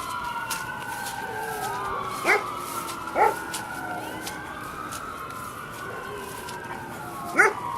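Dog yelping in short, sharp yips, twice about a third of the way in and once near the end, over long, slowly rising and falling wailing tones like a siren.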